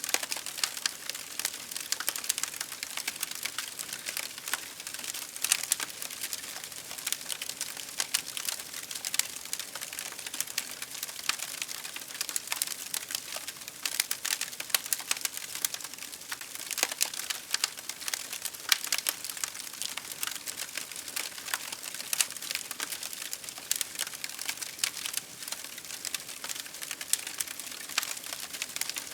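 Wood fire crackling and popping, dense irregular snaps over a steady hiss.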